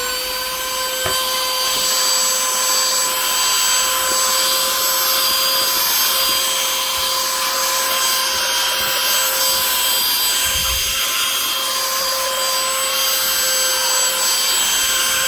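BISSELL AeroSlim 29869 cordless handheld vacuum running at full speed, picking up crumbs: a steady high motor whine over rushing air. It is switched off at the very end.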